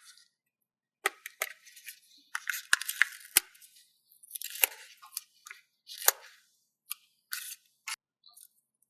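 Paper stickers being handled close up: irregular crinkling, crackling and sharp little clicks as stickers are peeled and pressed down, in short bursts with dead silence between them.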